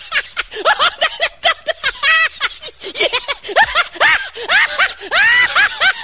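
AI-generated voice laughing: a rapid run of short ha-ha bursts, several a second, each rising and falling in pitch.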